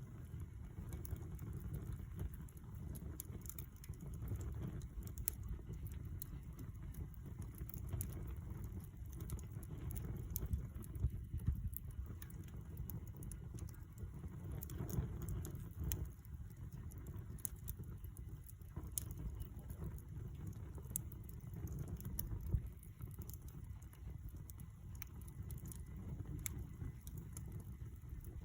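Campfire crackling: irregular sharp pops and snaps of burning wood over a low, steady rumble.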